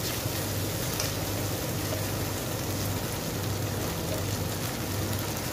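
Seafood in tomato sauce sizzling steadily in a hot nonstick wok, with a low steady hum beneath.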